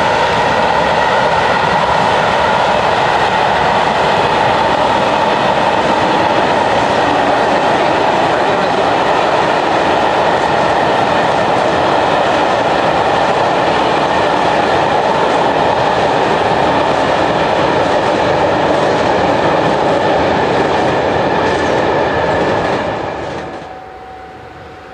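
A train passing close by at speed, a steady loud rush of wheels on the rails with some clickety-clack and a faint steady whine. It drops away sharply near the end as the train goes by.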